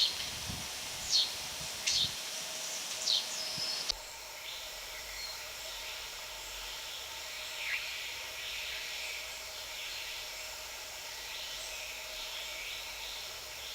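Rainforest ambience: a bird gives short, sharp down-slurred calls about once a second. About four seconds in the sound changes abruptly to a steady high chorus of insects and distant birds, with one clearer call near the eight-second mark.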